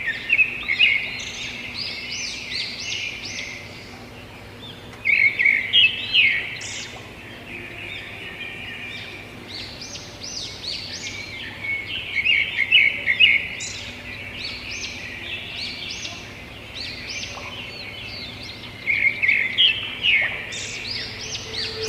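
Birds chirping: bursts of quick high notes that come in groups, with pauses of a few seconds between them.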